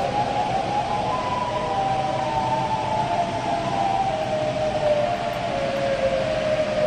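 Outdoor warning siren wailing: its pitch climbs to a peak about a second in, then slowly falls, over a steady hiss.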